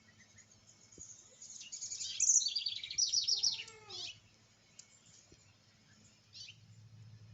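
Birds chirping: a quick run of high chirps starting about a second and a half in, with a lower call near four seconds and a few faint chirps later.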